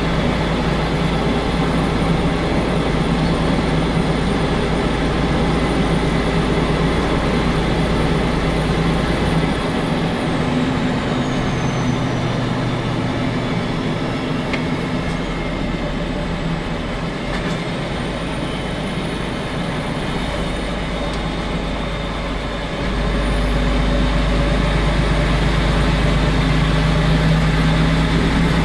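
Diesel engine of a semi-truck tractor heard from inside the cab while driving, running steadily under load. About ten seconds in the deep engine note eases off, and a few seconds before the end it comes back on stronger.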